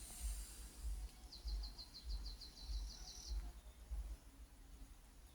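A small bird sings a fast trill of about a dozen high, evenly spaced notes lasting about two seconds, starting a little over a second in, over a low irregular rumble.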